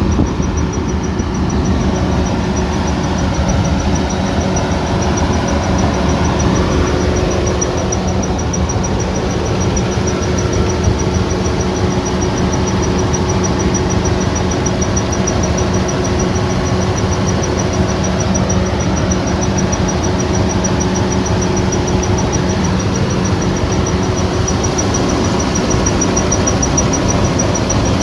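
Kubota DC-105X combine harvester running steadily, its diesel engine and machinery droning with a thin, steady high whine over them.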